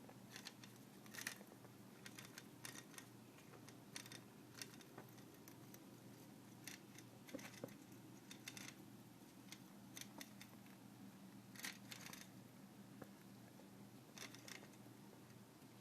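Coil-type putt-putt steam engine of a toy boat, its vibrating coil rattling against pieces of aluminium can. Faint, irregular clicks and ticks, often in small clusters, over a low steady hum.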